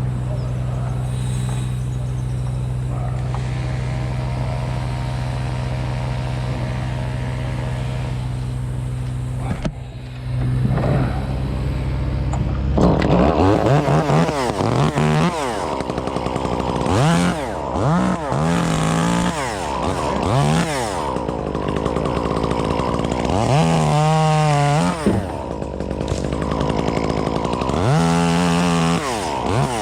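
A small engine runs steadily for about ten seconds. From about thirteen seconds in, a chainsaw is revved up and down again and again in short bursts.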